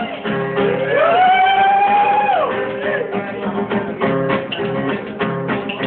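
Folk band playing live, with strummed acoustic guitar carrying the rhythm. A long held melody note rises into place about half a second in and ends around two and a half seconds.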